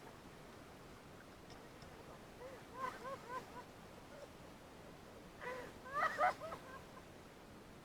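A bird calling in two bursts of short, repeated arched notes: a softer run a little before the middle, then a louder run with rising notes past the five-second mark.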